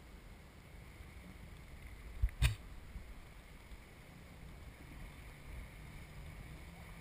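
Jet ski on the water heard as a low rumble, muffled through a GoPro's sealed waterproof housing, with one sharp knock about two and a half seconds in. A faint steady low hum comes in from about four seconds.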